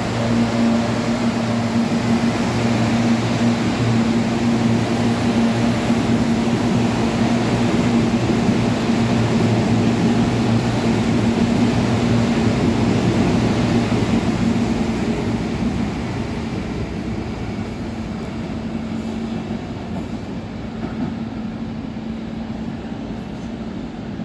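Electric CPTM commuter train pulling out along the platform, with a steady low hum and wheel-on-rail rumble. The sound fades from about fifteen seconds in as the last cars run away from the platform.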